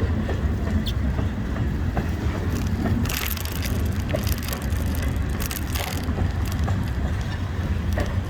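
Rental electric kick scooter rolling over a rough gravel road: a steady low rumble with crunching and rattling from the small wheels and frame, densest in the middle of the stretch. The ride is jarring enough to shake the handlebars.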